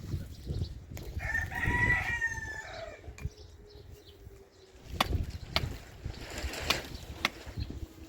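A rooster crowing once, a call of about two seconds that drops in pitch at the end, followed by several sharp knocks spread over the next few seconds.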